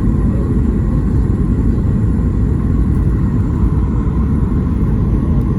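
Steady cabin noise of a Boeing 737 MAX 8 in flight: a constant low rumble of its CFM LEAP-1B engines and the airflow past the fuselage, heard from inside the cabin, with a faint steady hum higher up.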